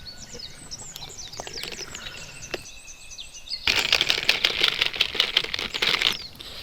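Birds chirping in quick, sweeping calls, with a louder, busier stretch of chirping about four seconds in that stops a couple of seconds later.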